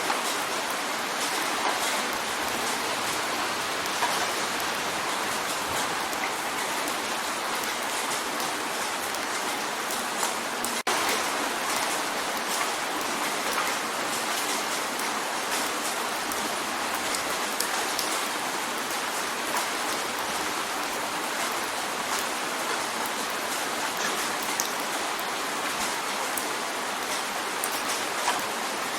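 Steady rain drumming on a window: a dense, even hiss of rain with many small drop ticks scattered through it.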